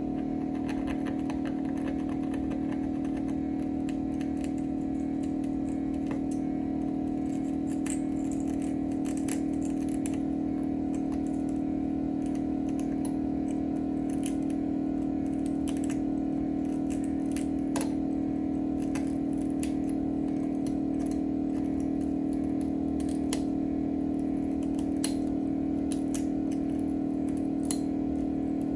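A steady machine hum with scattered light clicks and taps of small tools, the clicks sharper and more frequent in the second half.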